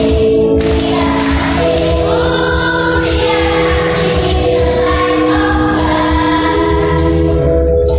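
Children's Sunday school choir singing long held notes together over musical accompaniment with a steady low beat.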